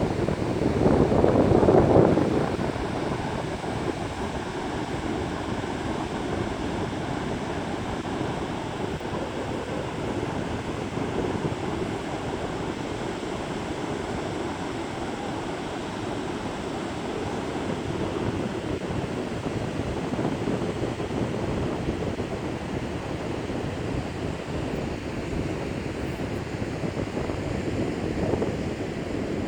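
Strong wind buffeting the microphone over the steady rush of surf, with a louder gust in the first couple of seconds.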